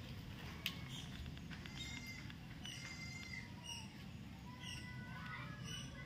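Birds chirping: short, high calls and a few longer pitched ones, coming about once a second in the second half, over a low background hum.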